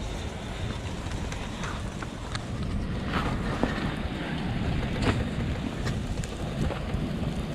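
Wind buffeting the microphone in a steady low rumble, with a few scattered small clicks and crackles.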